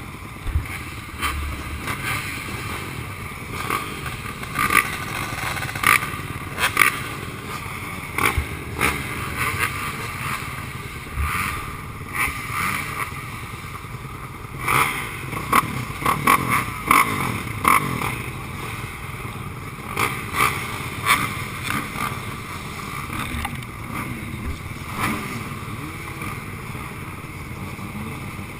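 Motocross dirt bike engine running under varying throttle, with frequent sharp rattles and knocks.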